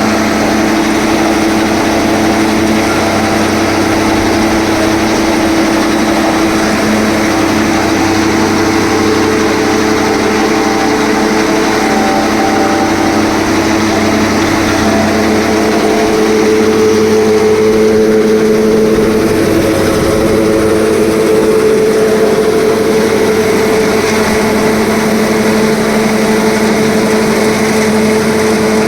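Tractor engine running steadily, driving a silage packing machine; the drone shifts up in pitch a little past halfway.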